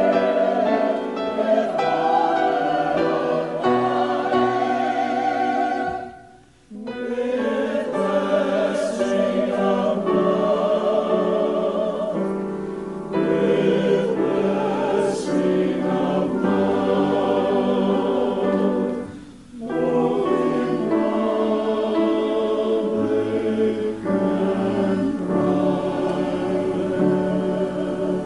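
Church choir singing a hymn or anthem in sustained phrases, with brief pauses between phrases about six and nineteen seconds in.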